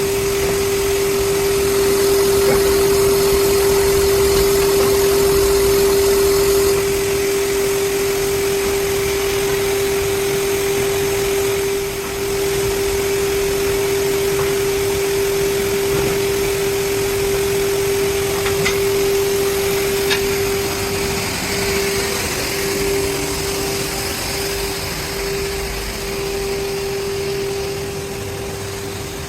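Foundry machinery running steadily: a constant humming tone over a broad rushing noise. The hum begins to waver and break up in the last third, and the sound dips in level briefly about twelve seconds in.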